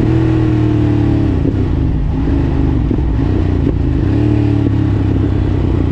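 Ducati Monster 1200 S 90-degree V-twin running through an Akrapovič exhaust while the bike is ridden. The engine note falls about a second in as the revs drop and turns uneven with a few sharp clicks, then rises briefly and falls again.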